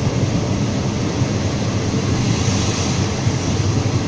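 Moving passenger train heard from inside the carriage: a steady rumble of the coach running along the track, with no break or change.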